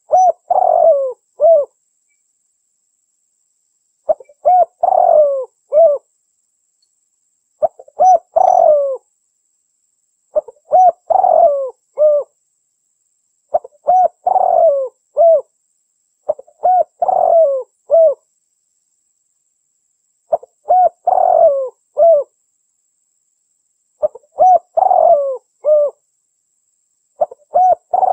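A female spotted dove (derkuku) cooing, used as a lure call for males: short phrases of several coos, each about one and a half seconds long, repeated about every three seconds.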